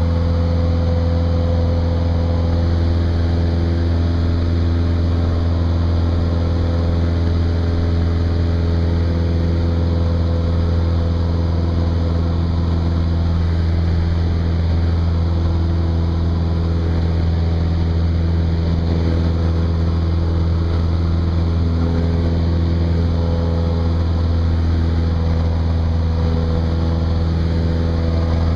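Cessna 172's piston engine and propeller droning steadily.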